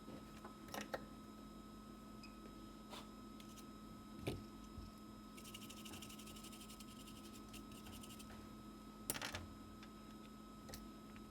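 Faint clicks and taps of small hand tools at a microsoldering bench, with a run of rapid fine ticking in the middle, over a steady electrical hum.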